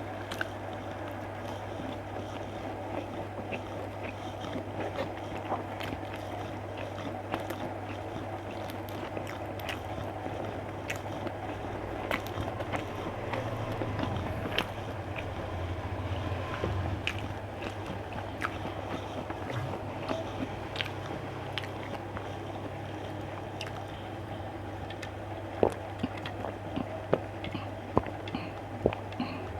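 A person eating close to the microphone: chewing and biting food, with many small scattered clicks and several sharper clicks near the end, over a steady low hum.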